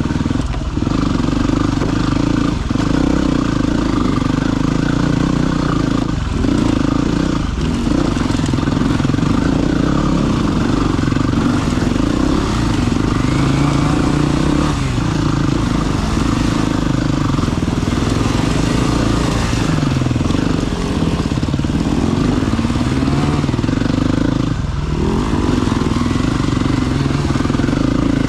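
Single-cylinder four-stroke dirt bike engine running steadily under a rider on a trail, with the throttle briefly rolled off and back on several times. Wind noise on the helmet camera runs through it.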